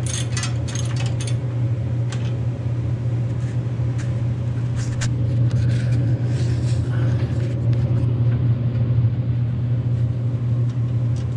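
A steady low hum at an even level, with a few light metal clinks from tools.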